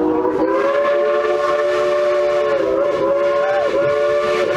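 Three-chime steam whistle of a coal-fired Baldwin Mikado-type steam locomotive blowing one long, steady chord. The pitch sags briefly twice past the middle.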